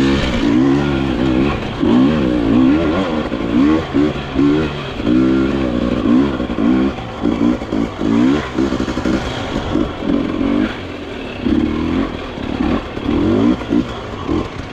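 Dirt bike engine being revved up and down over and over, its pitch rising and falling about once a second, with short on-off throttle blips.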